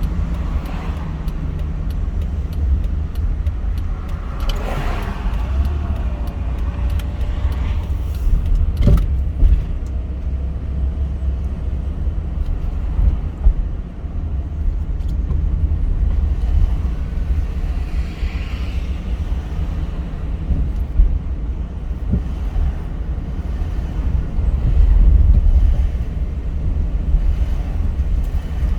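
Car driving on a road: steady low rumble of engine and tyre noise, with a sharp knock about nine seconds in.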